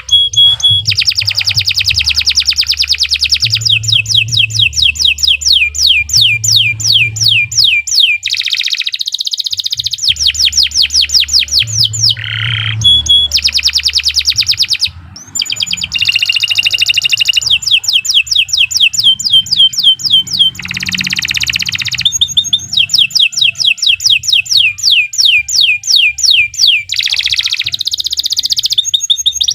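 Domestic canary singing a long, continuous song: rapid trills of repeated downward-sweeping notes, about ten a second, switching to a new phrase every few seconds, with a brief pause about halfway through.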